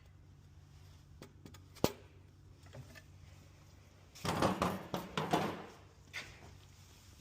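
A sharp metallic click, then a second or so of metal clattering and scraping as tools or parts are handled, over a steady low hum.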